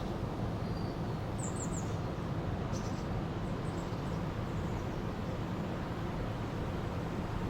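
River water flowing steadily. A few short, high bird chirps come in a quick run about a second and a half in, and again near three seconds.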